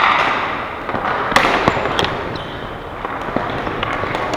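Ball hockey play: sharp cracks of sticks and ball hitting each other and the boards, about six times, with a short echo, over a steady background din.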